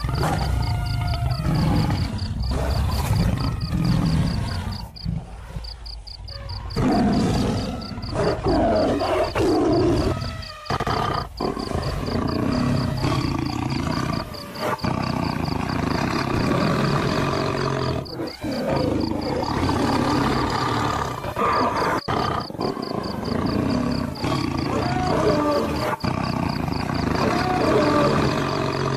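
Wild animals roaring and growling in long calls that rise and fall in pitch, with a lull a few seconds in.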